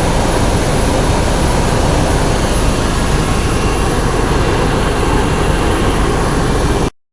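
Helicopter engine and rotor noise, loud and steady, cutting off suddenly near the end.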